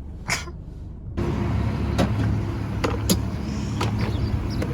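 Car running, heard from inside the cabin: a steady low hum that comes in suddenly about a second in, with a few sharp clicks and knocks over it.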